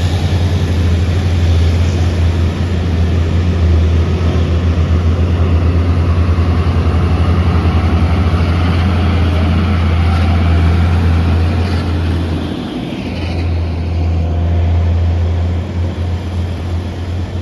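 Heavy diesel truck engine labouring up a hill, a loud, steady, low pulsing rumble that drops away briefly about two-thirds of the way through before picking up again.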